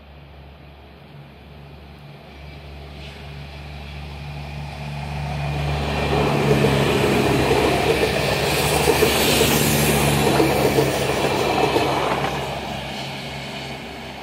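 Regional passenger train approaching and passing close by on the rails: a low rumble that grows louder, peaks with a broad rattle of wheels and coaches about six to twelve seconds in, then fades as it moves away.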